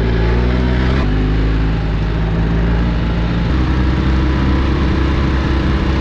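BMW R1300 GS's boxer-twin engine running at a steady speed under way, its note stepping to a new pitch abruptly about a second in and again past the middle.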